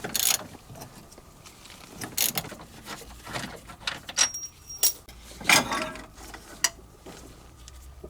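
Hand tools working on metal car-chassis bolts: a string of separate clicks, knocks and metallic clatter, with louder knocks about 2, 5.5 and 6.5 seconds in.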